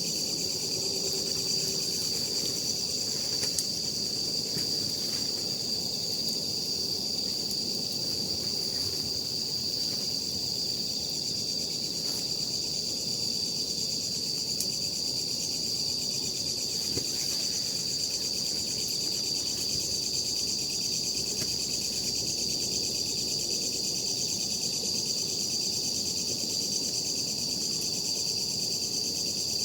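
A steady, unbroken high-pitched trilling chorus of night insects, with a few faint crackles from a wood campfire.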